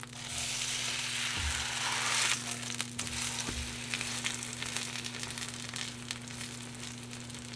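Food frying in hot oil: a loud sizzle for the first two seconds settles into steady crackling and popping. A steady low hum runs underneath.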